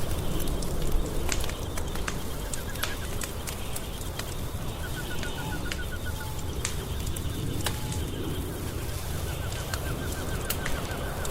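Wood fire crackling in a fireplace, with sharp scattered pops over a low steady rumble. A faint rapid ticking trill comes in a few times in the middle and near the end.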